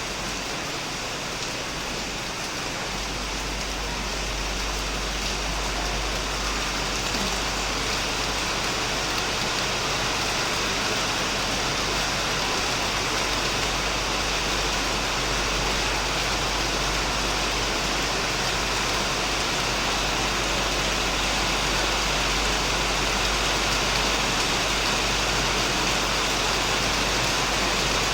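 Heavy rain falling steadily on a shed roof and plants: a dense, even hiss that grows a little louder over the first few seconds.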